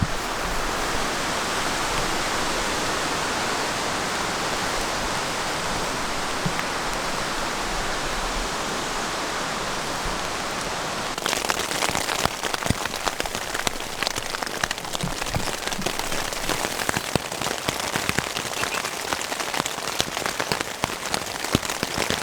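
Heavy rain falling as a steady, even hiss; about eleven seconds in it changes abruptly to dense, sharp drops pattering on a surface, rain drumming on a tent.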